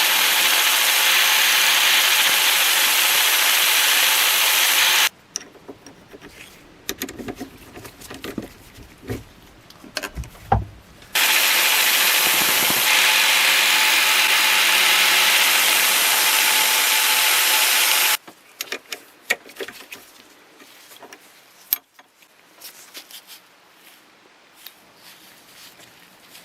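A power tool running steadily in two runs, each switched off abruptly: the first about five seconds long, the second about seven. Scattered clicks and knocks of handling come in the gaps between and after the runs.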